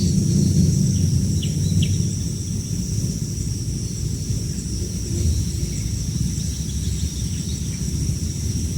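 A steady low rumble, like wind on the microphone, dominates, over a steady high-pitched hum, with a few faint short bird chirps about one and a half seconds in and again near the end.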